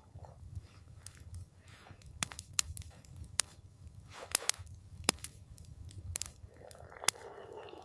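Campfire crackling: irregular sharp pops and snaps over a steady low rumble, with a soft rushing swell near the end.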